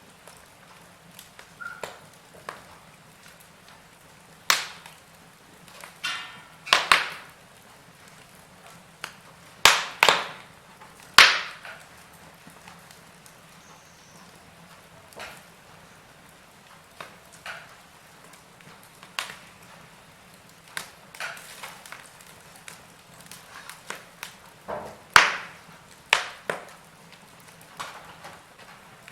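Wood fire in a fireplace crackling, with sharp pops and snaps at irregular intervals over a faint steady hiss. The loudest cracks come in clusters about ten seconds in and again near the end.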